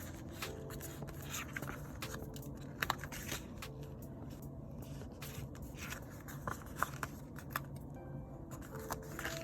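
Stickers and paper being handled: short crackles, taps and scrapes as stickers are peeled off their sheets and pressed down, over soft background music.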